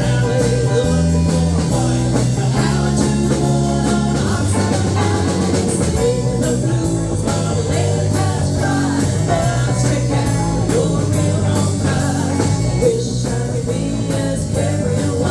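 Band playing a rockabilly-blues song: electric guitar over a stepping bass line and drum kit.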